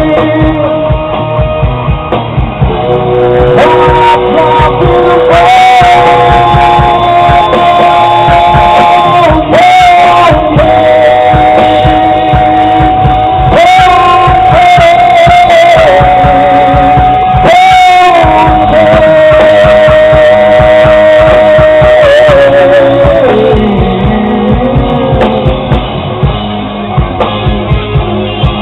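Live rock band playing loudly: a steady drum and bass beat under guitar, with a voice singing long, wavering held notes.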